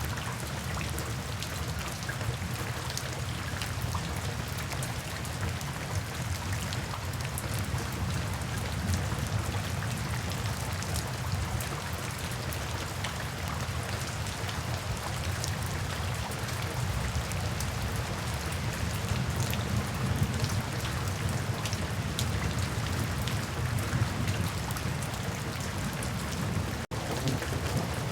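Steady rain falling, with a dense patter of individual drops over a low rumble. There is a split-second break in the sound near the end.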